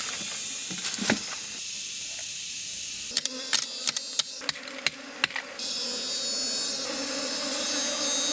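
Insects buzzing: a steady high-pitched insect hiss, with a run of sharp clicks in the middle. About five and a half seconds in, a low bee-like hum joins.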